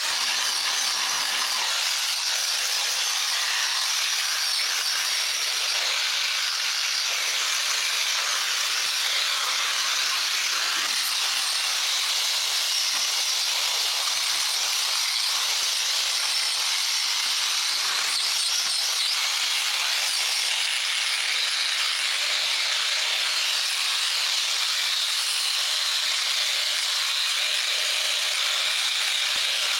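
A steady, even hiss of rushing air or spray with no pitch to it, holding at one level throughout.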